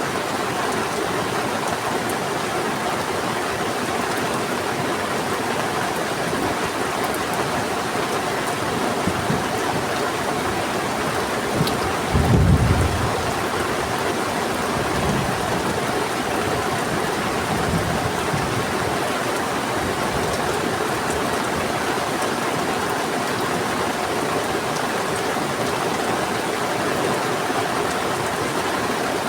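Heavy rain falling steadily, mixed with rushing river water, with a low roll of thunder about twelve seconds in and fainter rumbles a few seconds later.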